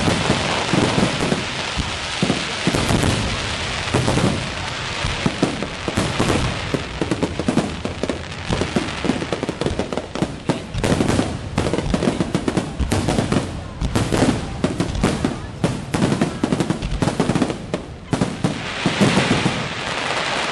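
Aerial fireworks display: shells bursting one after another with dense crackling and many overlapping bangs, unbroken throughout.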